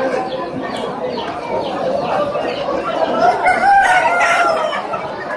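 A rooster crowing once, a single drawn-out call about three seconds in, over the busy din of a crowded animal market.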